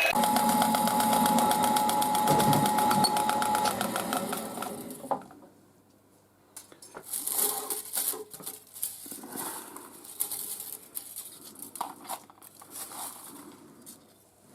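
Drilling machine running with a countersink tool in aluminium, a steady rhythmic machine sound with a held tone, which winds down and stops about five seconds in. After it stops come scattered clinks and knocks of tool handling.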